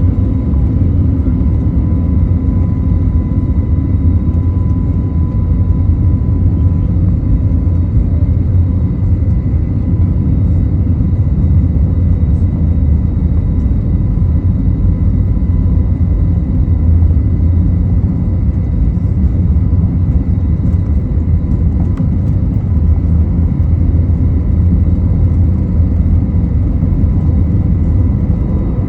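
Airbus A321neo's CFM LEAP turbofan engines at TO/GA takeoff thrust: a loud, steady low rumble with a constant high engine hum over it.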